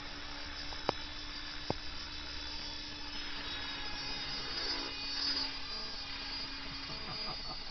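Radio-controlled model helicopter in flight: a steady whine from its motor and rotors, made of several held tones, briefly louder about five seconds in. Two sharp clicks come near the start.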